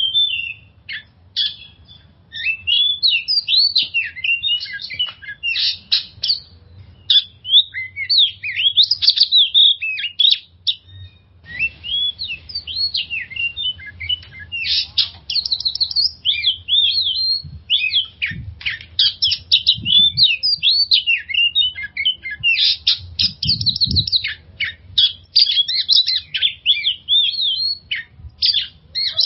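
Oriental magpie-robin (kacer) singing a long, varied song of rapid whistles, chirps and trills, with hardly a pause. This is the kind of song that keepers play to a kacer to trigger it into singing.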